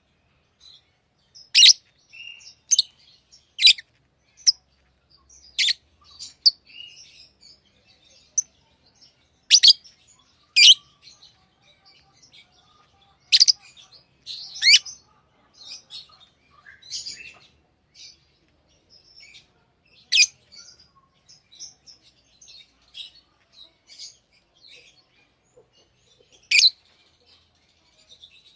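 Pet lovebirds chirping: short, shrill, high-pitched chirps at irregular intervals, about a dozen loud ones with softer twittering in between.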